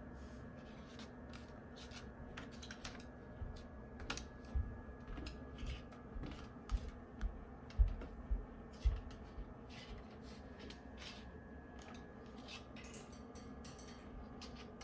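Irregular light clicks and taps, with a run of dull low thumps through the middle.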